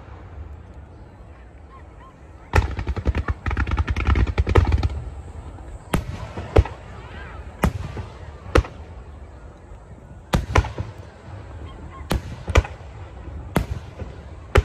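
Fireworks display: a rapid string of crackling bangs for about two seconds, then aerial shells bursting one at a time, roughly once a second.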